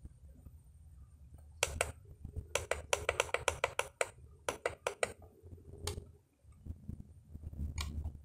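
Sharp clicks of control buttons being pressed to step through a menu: a pair, then a quick run of about ten, a few more, and a last pair near the end, over a steady low hum.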